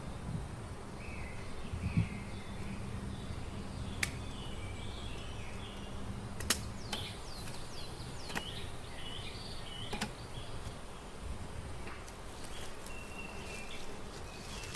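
Outdoor forest ambience: birds chirping now and then over a steady hiss, with a few sharp single clicks spaced a couple of seconds apart and a low thump near the start.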